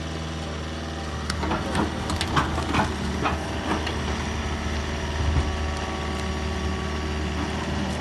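Amphibious excavator's engine running steadily, with a run of sharp cracks and knocks starting about a second in and lasting a few seconds, and one more shortly after the middle.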